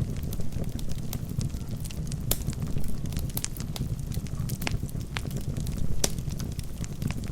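Wood fire burning in a fireplace: a steady low rumble of flames with irregular sharp crackles and pops from the burning logs, a few louder pops among them.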